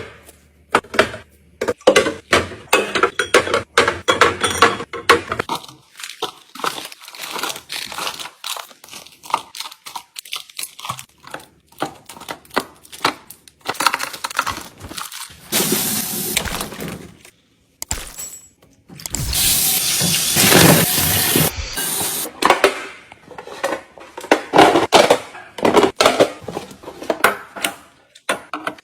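Handling noise from groceries and plastic food containers being packed away: repeated clicks, knocks and clatter with plastic crinkling, and two longer stretches of steady hiss about halfway through.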